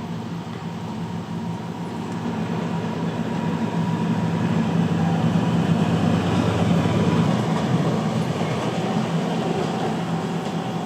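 DB class 294 diesel-hydraulic shunting locomotive running light past, its diesel engine droning steadily, growing louder to a peak about halfway through and then easing off.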